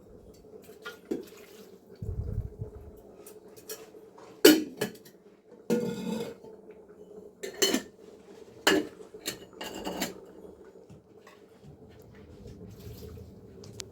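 Dishes and metal utensils clattering: a string of separate sharp clinks and knocks, some ringing briefly, with a dull low thump about two seconds in.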